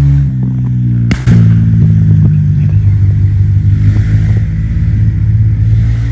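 Dirt bike engine running steadily, with one sharp bang about a second in: the bike backfiring.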